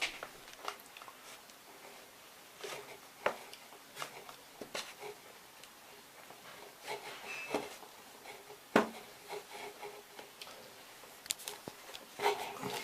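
Scattered light clicks and taps of hands working small wooden model-aeroplane parts on a workbench, with the sharpest knock about nine seconds in.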